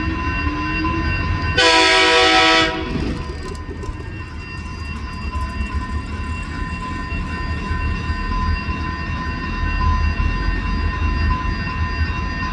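Diesel freight locomotive on a metre-gauge line rumbling past and sounding its air horn once, a loud blast of about a second roughly two seconds in. A steady high tone runs alongside the low rumble of the train.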